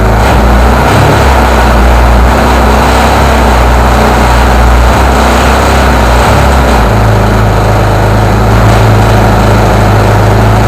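Home-built miniature internal-combustion engine, with dry-sump lubrication and battery ignition, running loud and steady; about seven seconds in its low note steps up to a higher pitch.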